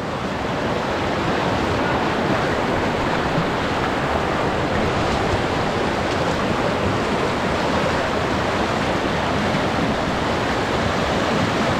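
Swollen floodwater creek rushing steadily.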